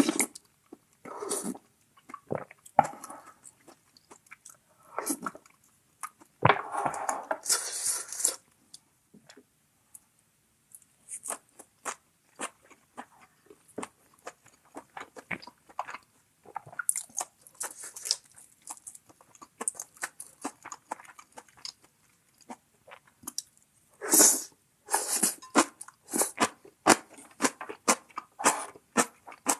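A person eating close to the microphone: many short, clicky chewing and crunching sounds, with a few longer, louder noisy stretches near the start, about seven seconds in, and near the end.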